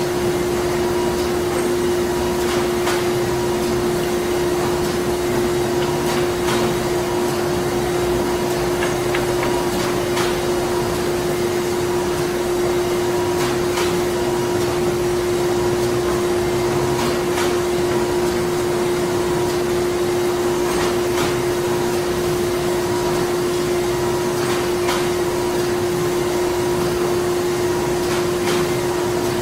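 Printing-plant machinery running steadily: a constant mechanical drone with a strong held tone, and a light knock repeating about every three and a half seconds.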